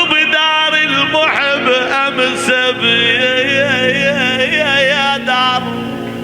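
Man singing an Iraqi mawwal: one long melismatic vocal line, bending and wavering in pitch, over held low accompanying tones.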